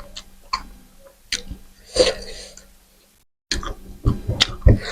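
Close-miked eating sounds: chewing with wet mouth clicks and smacks. The sound drops out completely for about half a second near the three-second mark, then comes back as busier chewing.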